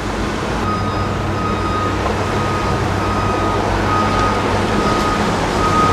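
A vehicle's reversing alarm beeping repeatedly, starting about a second in, over a steady rushing noise.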